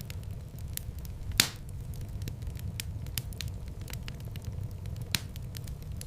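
Wood fire in a fireplace crackling over a low, steady rumble, with scattered small snaps and one loud pop about a second and a half in, another near the end.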